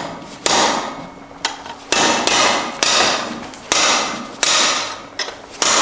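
Hammer blows on the metal of a Subaru STI six-speed transmission being knocked apart, about seven strikes spaced roughly a second apart, each ringing briefly.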